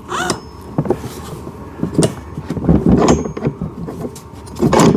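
Hard plastic parts of a kids' ride-on car knocking and scraping together as the steering mechanism is worked into the frame: a few sharp clunks, a rattling scrape in the middle, and a loud knock near the end.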